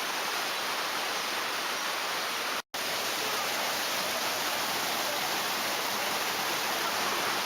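Mountain valley stream running: a steady rush of water, broken by a split-second dropout to silence nearly three seconds in.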